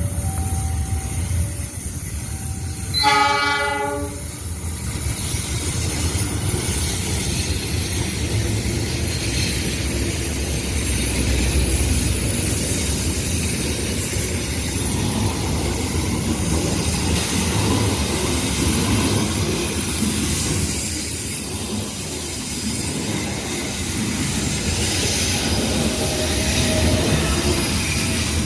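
A train's horn blows once, loud and brief, about three seconds in, then the train runs past with a steady rumble and clatter of wheels on the rails.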